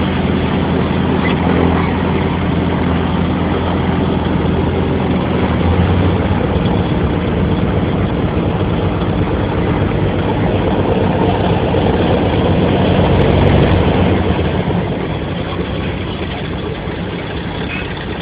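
The de Havilland Dragon Rapide's two inline six-cylinder piston engines running steadily at low power. They swell slightly, then ease back about fourteen seconds in.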